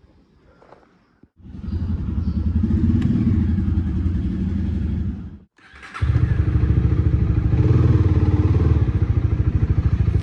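A Honda CB300R's single-cylinder engine starts about a second in and runs at a steady idle. It drops out briefly about five seconds in, then runs steadily again.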